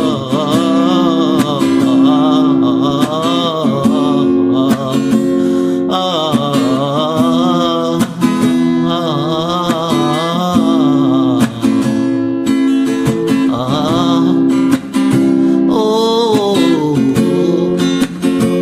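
Acoustic guitar strummed and plucked in a steady rhythm, with a wavering wordless vocal melody sung over it.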